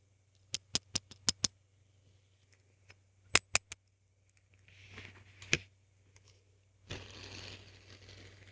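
Hand spinner handled up close: a quick run of about six sharp clicks, two louder clicks about three and a half seconds in, then soft scraping and rustling.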